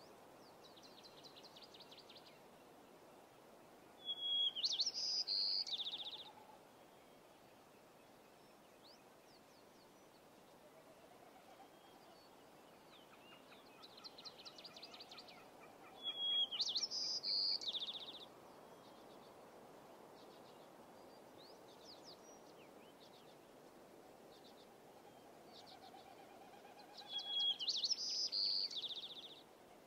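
Birdsong: a bird sings a high phrase about two seconds long three times, roughly every eleven to twelve seconds, with fainter chirps and trills in between.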